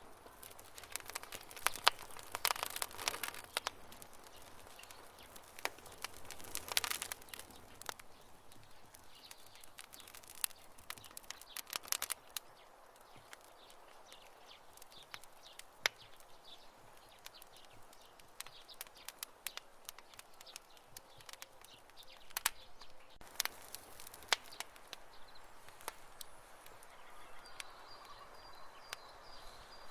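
Wood campfire crackling and popping in irregular sharp snaps over a soft hiss, with thick clusters of pops a couple of seconds in and again around seven seconds, then sparser snaps.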